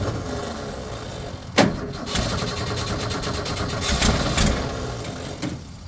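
1965 Ford Mustang engine running rough and uneven, flooded with B-12 carburetor cleaner, with one sharp pop about a second and a half in.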